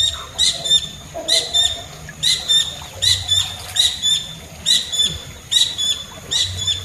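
A bird calling over and over: short, high calls coming two at a time, about one pair a second.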